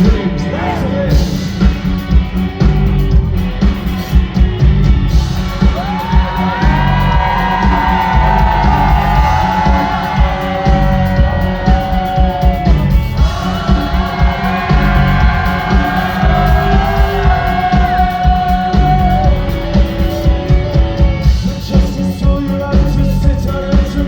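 Live rock band playing at full volume, with driving drums and bass and a long, held melodic line over them through the middle of the passage.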